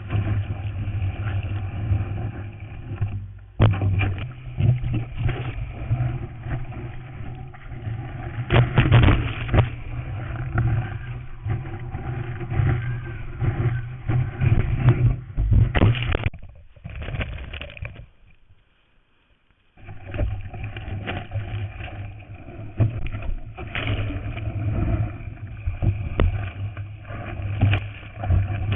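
Ocean water and wind rushing and splashing against a first-generation GoPro Hero in its waterproof housing while surfing, a dense rumble broken by irregular splashes and knocks. The sound drops out for about two seconds a little past the middle, then the rush picks up again.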